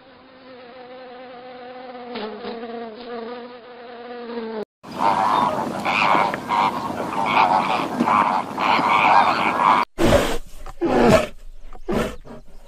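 Flies buzzing: a steady droning hum of wingbeats. After a cut, a flock of flamingos calls in a dense, loud honking chatter. Near the end come several sharp splashes as a black bear rushes through a stream.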